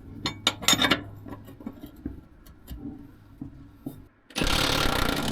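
Metal tools clinking and knocking under a semi-truck, then about four seconds in a pneumatic tool starts up loudly on the spring shackle bolts.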